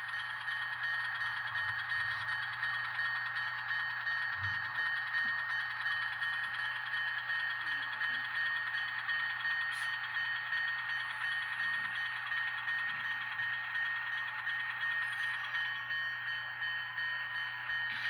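Diesel engine sound from the ESU LokSound decoder in an N scale Atlas switcher, played through the model's small speaker as the locomotive runs slowly pulling cars. It is a steady, evenly pulsing chug with a constant high tone over it.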